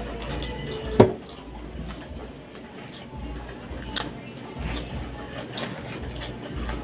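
Eating sounds of a person chewing rice and bitter gourd taken up by hand, with a sharp click about a second in and another about four seconds in.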